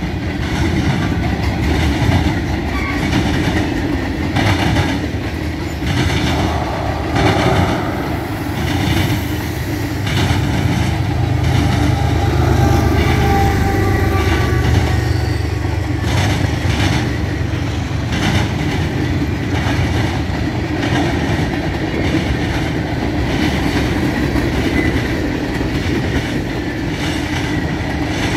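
Freight train cars rolling past close by: a steady low rumble of loaded boxcars, tank cars and hoppers, with the wheels clicking again and again over the rail joints.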